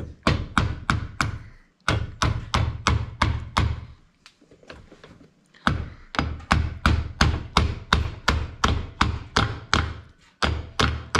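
Hammer blows in quick runs of about four strikes a second, with short pauses between runs, the longest about two seconds; the work is driving the gear lever's slotted roll pin.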